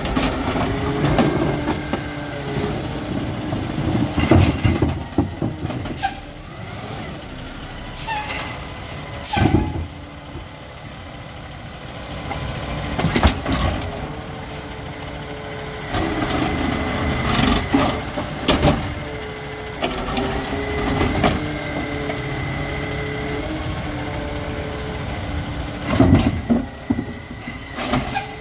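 A McNeilus ZR automated side-loader garbage truck on a Freightliner chassis at work: the diesel engine runs under a steady hydraulic whine while the arm cycles, with repeated bangs and knocks as carts are handled and dumped.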